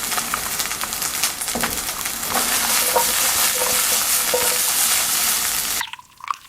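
Sizzling in a hot cooking pot, with scattered clicks and scrapes of stirring. It grows louder about two seconds in and cuts off abruptly near the end, leaving a few faint clicks.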